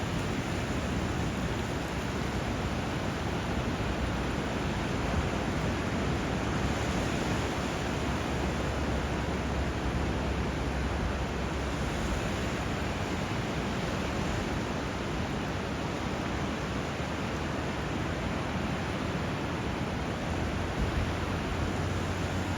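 Steady rush of moving water, an even hiss with no breaks or separate waves standing out.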